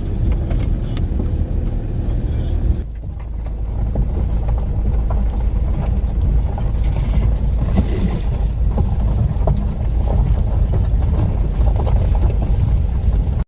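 Loud, steady low rumble, with a short dip about three seconds in.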